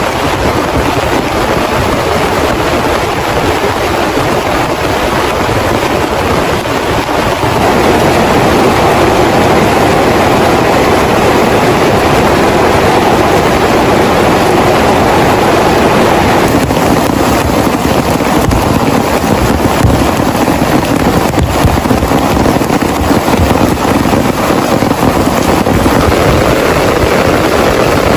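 Heavy rain falling steadily, getting louder about seven seconds in.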